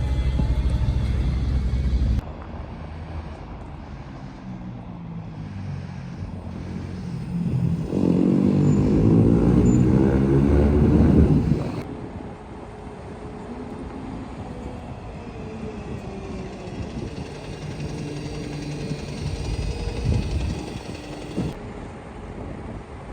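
Buses in town street traffic, recorded in a few short clips. A heavy engine runs loudly at first, and a vehicle pulls away with a rising engine note about eight to eleven seconds in. Quieter traffic rumbles between.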